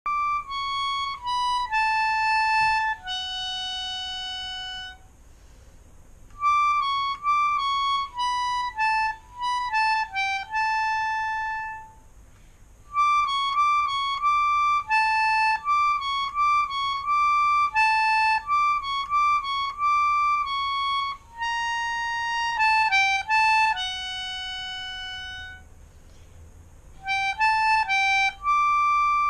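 Melodica played solo: an improvised melody of single held notes in short phrases, with brief pauses between the phrases.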